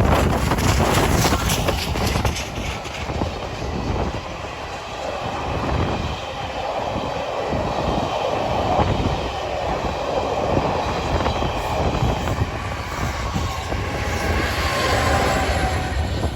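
A steam-hauled passenger train, headed by Bulleid Battle of Britain class locomotive 34067 'Tangmere', passing close by, its coaches' wheels running steadily along the rails.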